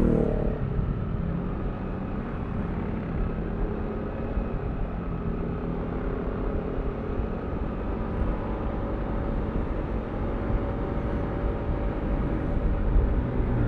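Yamaha Aerox V3 scooter's 155cc single-cylinder engine running on the move. Its pitch drops in the first second, as when the throttle eases off, then holds steady over a low rumble.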